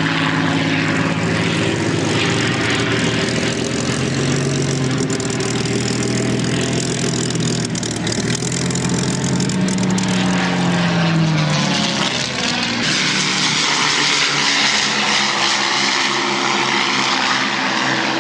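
Piston-engined propeller aircraft flying overhead, a loud steady engine drone with more than one engine note at once; about eleven seconds in, one note drops in pitch as an aircraft passes.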